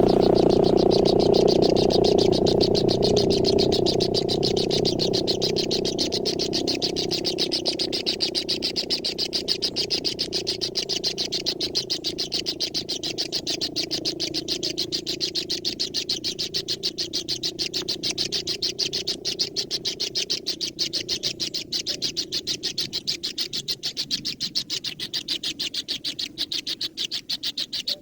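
Animal calls: a rapid, pulsing chatter, loudest at first and slowly fading.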